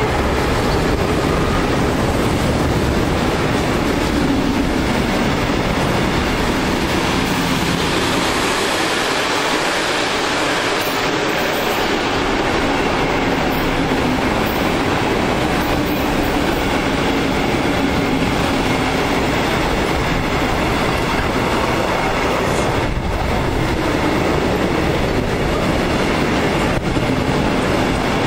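Intermodal freight wagons loaded with lorry semi-trailers rolling past at speed: a steady, loud rumble and clatter of steel wheels on the rails.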